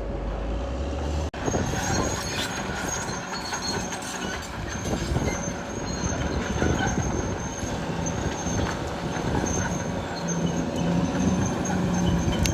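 Caterpillar D6R XL bulldozer working: the diesel engine running under load while the steel tracks squeal and clank. A brief cut in the sound about a second in.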